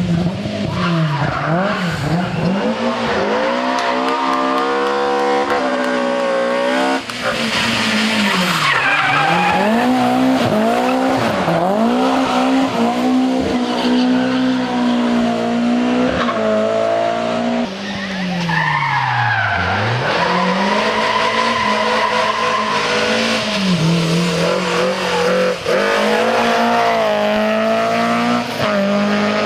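A rally car's engine being driven hard, revs climbing and falling again and again as it changes gear through the corners, with tyres squealing at times.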